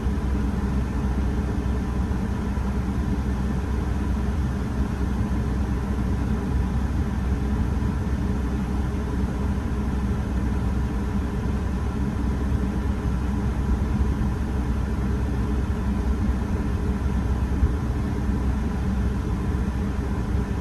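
Car engine idling, a steady low rumble that holds an even level throughout.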